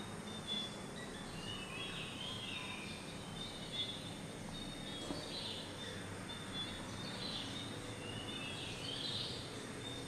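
Birds calling, short high chirping phrases repeating every second or two over a steady background hiss.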